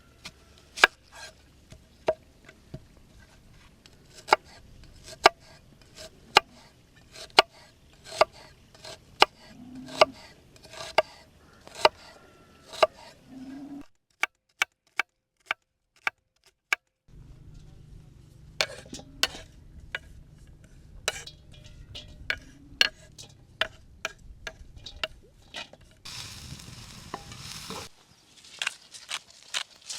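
A cooking utensil stirring food and knocking against its pot or bowl, in a run of sharp clinks about one or two a second, with a lull of a few seconds around the middle.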